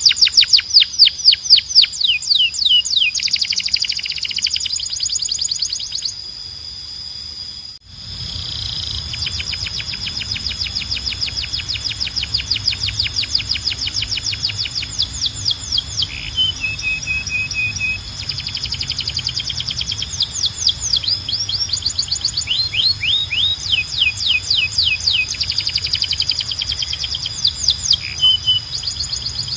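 Canary singing long, fast trills of rapidly repeated sweeping notes, moving from one run of notes to the next. The song dips briefly about six seconds in and breaks off near eight seconds. It then goes on with a steady low hum behind it.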